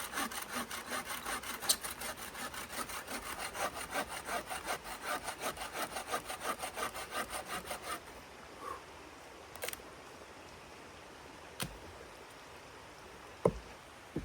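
Hand saw cutting through wood in quick, even strokes, about three to four a second, stopping about eight seconds in. A few separate knocks follow, the loudest near the end.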